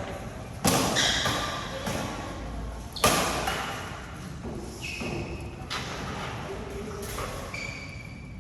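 Badminton rackets hitting a shuttlecock in a rally: about seven sharp smacks at uneven spacing, the loudest about half a second and three seconds in, each echoing in a large hall. A few short, high squeaks come between the hits.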